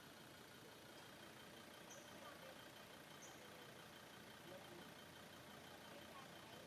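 Near silence: faint steady background noise, with two brief faint high chirps about two and three seconds in.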